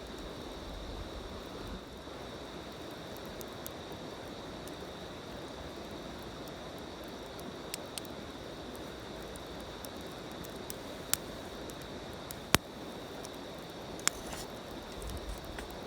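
Campfire burning with a steady low hiss, broken by a few sharp crackling pops in the second half, the loudest about three-quarters of the way through.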